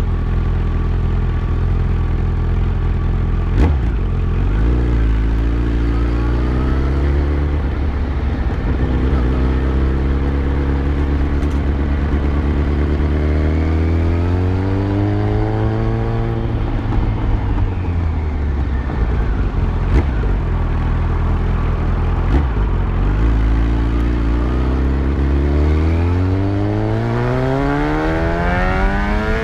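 Yamaha FZ1's inline-four engine under way on a ride, its pitch rising as the bike accelerates, falling back as it slows, then climbing steadily again near the end. A few short clicks sound along the way.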